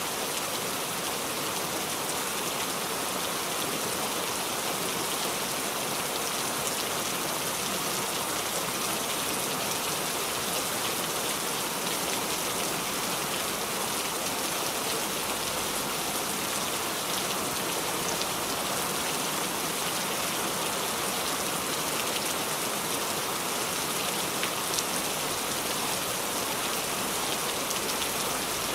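Steady rain falling, an even hiss with many fine drop patters, unchanging in level.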